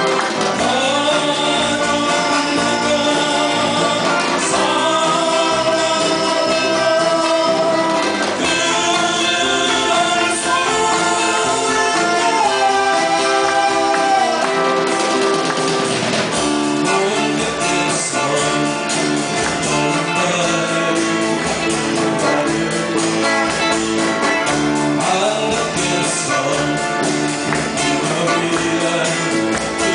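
Live band playing a song, a lead voice singing over electric guitar and a rhythm section.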